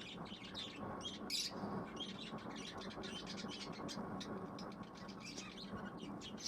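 Pet budgies chirping: many short, high chirps in quick succession, with a louder cluster about a second and a half in.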